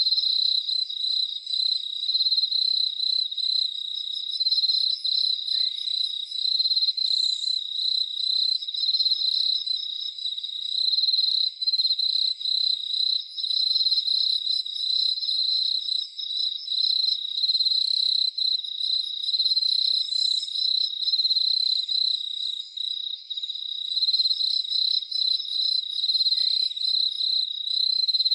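Crickets chirping in a dense, continuous chorus: a high-pitched trill that pulses rapidly and never stops.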